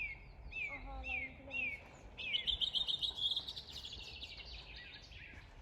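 A songbird singing: a run of about five whistled notes that each slur downward, evenly spaced, then a fast trill that lasts a couple of seconds and fades out.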